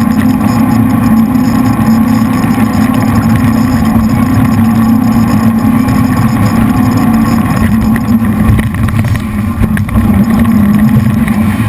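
The jet boat's three V8 engines run at speed in a steady loud drone, over a rush of water and wind.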